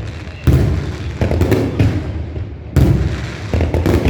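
Aerial firework shells bursting in quick succession: a string of sharp booms, each dying away in an echoing rumble, with the loudest bursts about half a second in and just before three seconds.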